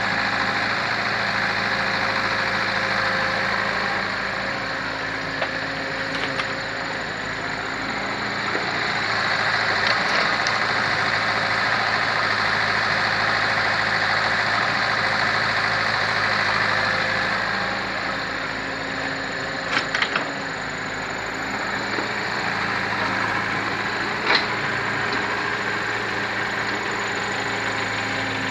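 Excavator's diesel engine running steadily, getting louder for several seconds at a time as it works, with a few short sharp knocks, including a quick cluster of them about twenty seconds in.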